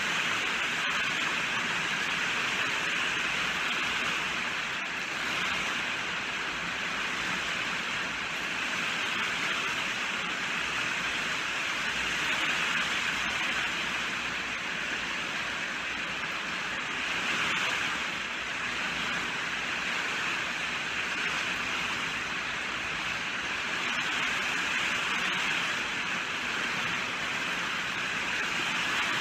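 Rain falling steadily: an even hiss that stays much the same throughout.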